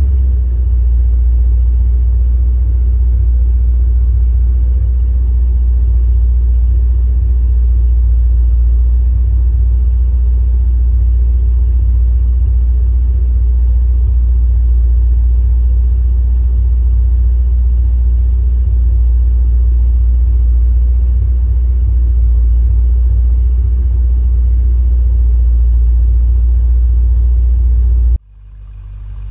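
A 1976 Corvette Stingray's 350 V8 running steadily, a deep, even rumble, which cuts off abruptly near the end.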